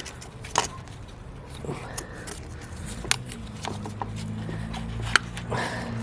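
A few sharp plastic clicks and knocks from fitting a new ignition coil and plugging in its electrical connector on a BMW E90 engine, the loudest click near the end. A low, steady engine hum comes up about halfway through.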